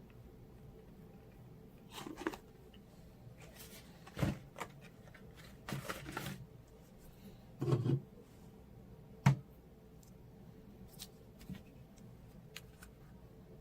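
Scattered clicks and knocks of something being handled, with a sharp click about nine seconds in, over a faint steady hum.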